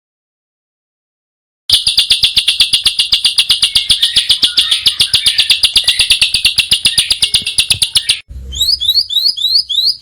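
Small songbird singing a fast, rapid run of loud high notes, evenly repeated many times a second, starting about two seconds in after a stretch of silence. Near the end it gives way to a different call of quick rising chirps, about three or four a second.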